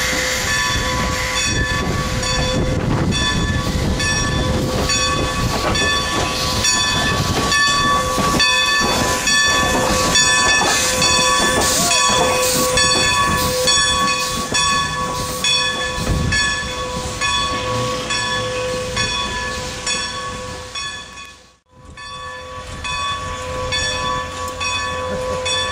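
Strasburg Rail Road No. 90, a 2-10-0 Decapod steam locomotive, working its train, with a steady ringing of several tones and regular ticks over a low rumble. The sound drops out briefly near the end.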